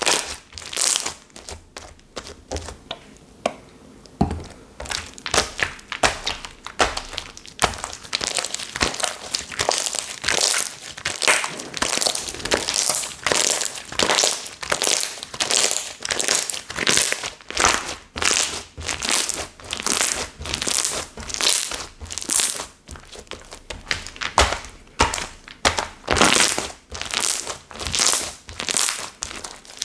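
Slime being squeezed and worked by hand: a dense, uneven run of short squishing, popping sounds, several a second, with a quieter stretch about two to four seconds in.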